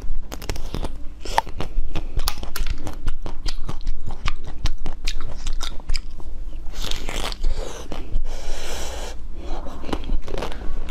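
Close-miked crunching and chewing of hard blue-coated chocolate balls: many sharp crunches in quick succession, with a softer rustling stretch about seven to nine seconds in.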